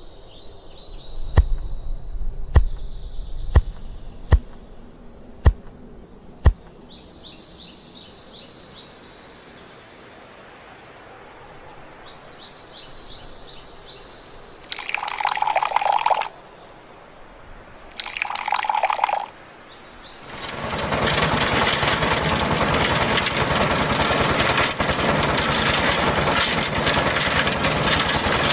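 Six sharp clicks with faint bird chirps, then two short bursts of rushing noise, and about two-thirds of the way in a steady rush of pouring water begins and continues.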